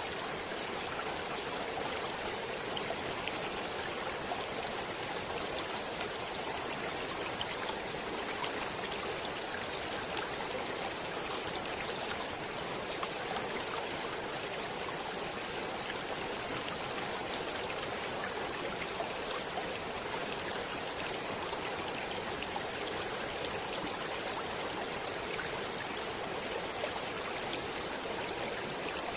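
Flowing stream water: a steady, even rush with many small splashing ticks in it.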